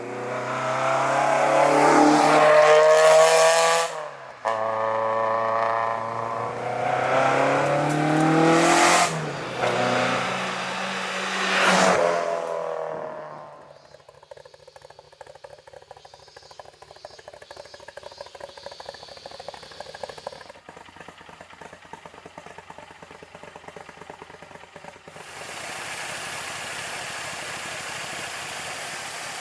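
Toyota AE86's four-cylinder engine revving hard under acceleration, its pitch climbing, with a brief break about four seconds in and further climbs. About thirteen seconds in it drops off to a quiet, clattery low-revs running or idle. Near the end a steady hiss comes in over it.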